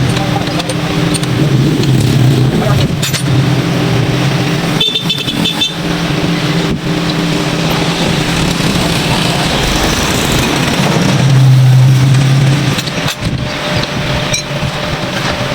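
A motor running steadily with a low hum, broken by a few brief clicks and knocks, with a louder stretch of the hum about eleven seconds in.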